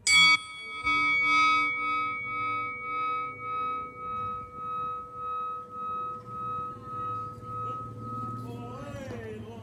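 A bell-like metal tone, struck twice in quick succession, rings out for about eight seconds with a slow pulsing wobble of about two beats a second. A short warbling sweep follows near the end.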